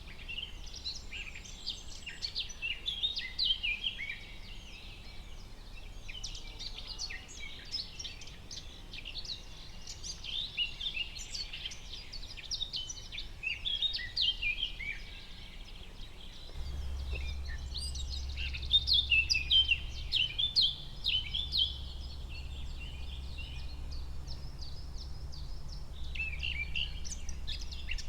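Forest ambience of many small birds chirping and singing, with quick overlapping chirps and trills. A low steady rumble joins underneath a little past halfway.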